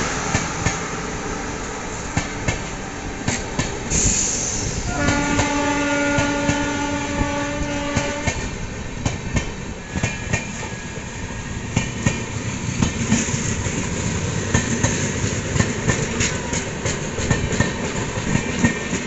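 Passenger train coaches running past on the adjacent track, their wheels rumbling and clattering over the rail joints. A train horn sounds once, held for about three seconds, about five seconds in.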